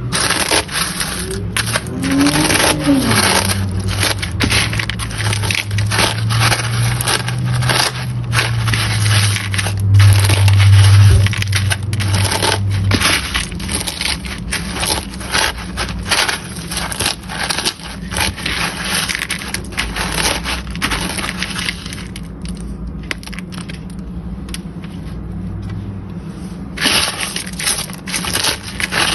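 Crushed cornflakes crunching and crackling as chicken strips are pressed into the cornflake coating: a dense run of small crackles that thins out for a few seconds late on. A low steady hum runs under the first half.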